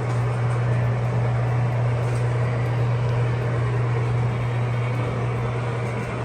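A steady low hum with an even rushing noise over it, like a vehicle running at a constant speed.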